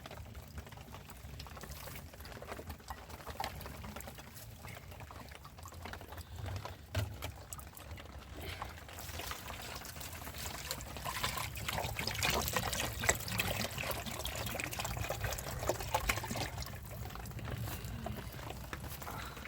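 Water pouring and trickling with a crackly splash, louder through the middle stretch.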